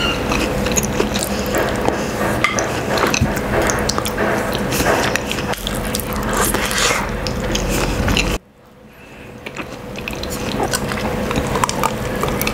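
Close-miked eating: chewing and biting on a mouthful of rice and sardines in tomato sauce, with many small wet clicks and smacks. The sound drops away suddenly about eight seconds in, then the chewing builds back up.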